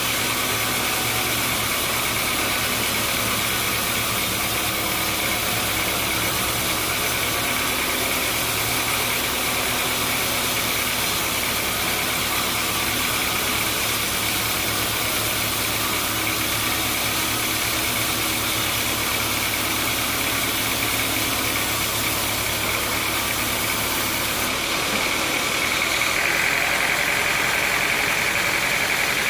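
Sawmill machinery running steadily: a low engine-like hum under a constant hiss and a high whine. About 25 seconds in, the low hum drops away and the high whine grows louder.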